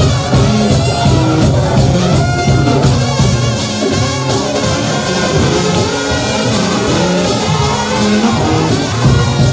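Brass shout band with drum kit playing loud, up-tempo gospel music: many brass horns sounding together over a steady driving beat.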